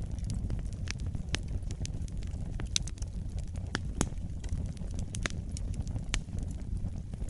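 Wood fire burning in a fireplace: a steady low rumble of the flames with irregular sharp crackles and pops of burning logs, several a second.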